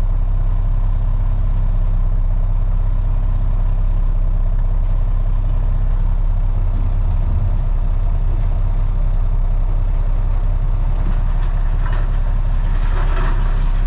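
Freightliner FLD truck's diesel engine idling steadily.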